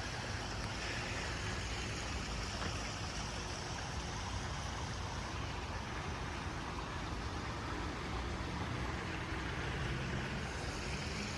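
Small creek flowing over stones, a steady, even rush of water.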